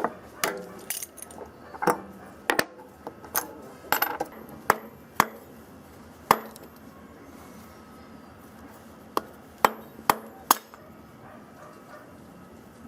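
Small metal parts clinking and knocking against each other and a hard surface as they are handled: irregular sharp clicks, frequent in the first half, then a few more spaced out until about ten and a half seconds in.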